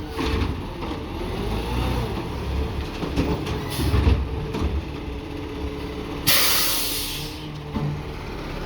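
Peterbilt 520 McNeilus ZR side-loader garbage truck running, with the whine of its hydraulic arm rising and falling in pitch and a couple of clunks about four seconds in. About six seconds in, a burst of air hisses for about a second.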